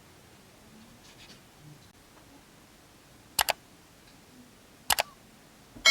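Two sharp double clicks about a second and a half apart, over a quiet background. Right at the end, a ringing metallic strike with several steady tones starts.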